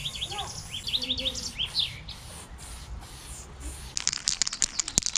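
Small birds chirping, a string of short repeated chirps over a low outdoor rumble. About four seconds in, a quick run of sharp clicks, around eight to ten a second, rattles louder than the birds.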